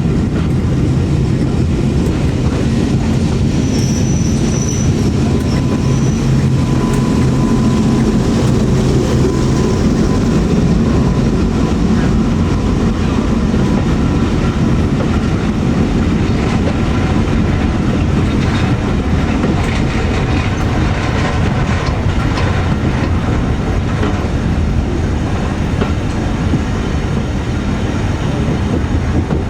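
Coaches running along the track behind Class 37 diesel locomotive 37667: a steady loud rumble of wheels on rail with clickety-clack, over a low drone that is strongest in the first ten seconds. A short high squeal of wheels on rail comes about four seconds in.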